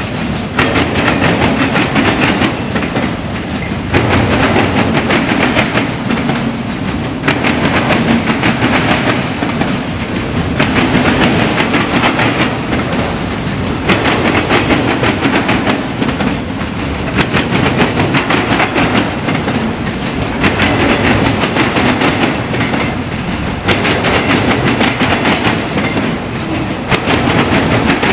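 Cars of a slow freight train rolling past close by, wheels clacking over the rail joints. The sound swells and eases about every three seconds as each car goes by.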